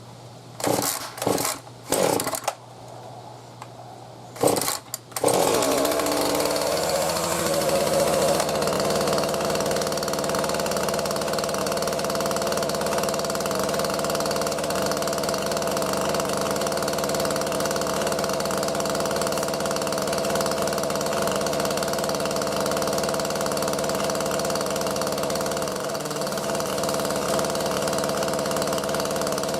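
A Husqvarna two-stroke chainsaw being pull-started: a few short rips of the starter cord in the first five seconds, then the engine catches and runs steadily at idle.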